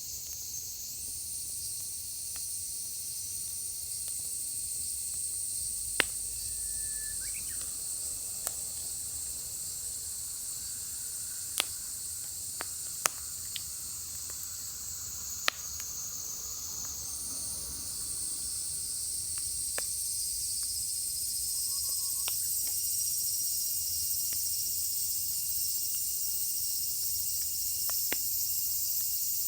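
Firewood burning in a fire pit, with scattered sharp pops and cracks every few seconds. A steady, high chorus of insects runs underneath.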